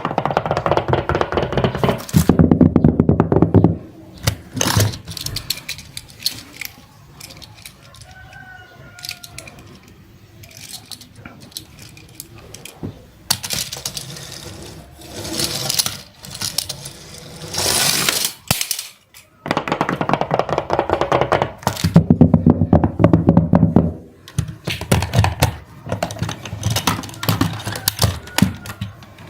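Hard toy vehicles rolling and clattering, in several loud stretches of dense rattling and sharp knocks, with quieter pauses between them.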